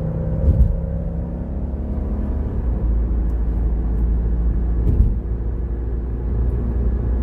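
The 2017 Ford Explorer's V6 engine running at a steady speed, with two brief knocks, about half a second and five seconds in. The engine is being checked for an intermittent misfire in cylinders 2 and 6.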